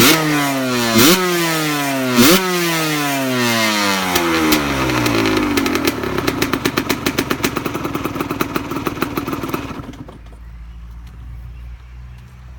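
A Husqvarna SM125 two-stroke single with a handmade expansion chamber and a WR motocross silencer is blipped three times in quick succession, its revs falling away slowly after each blip. It drops to a lumpy, pulsing idle and then cuts out about ten seconds in.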